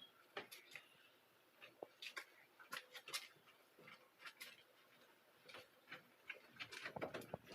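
Faint, irregular clicks and taps, a few a second, over near silence.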